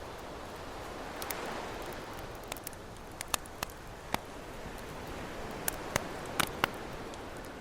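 Campfire crackling with scattered sharp pops over the steady wash of ocean waves, the surf swelling about a second in.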